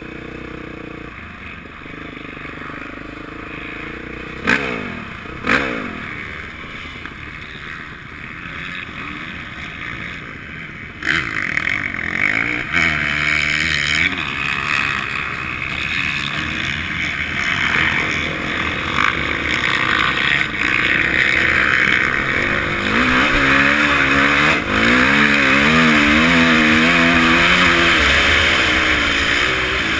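Honda CRF450 motocross engine heard from a helmet camera as the bike is ridden, revving up and down repeatedly. It runs more quietly at first, with two sharp knocks about four and five seconds in, then gets louder from about eleven seconds in over a rushing hiss.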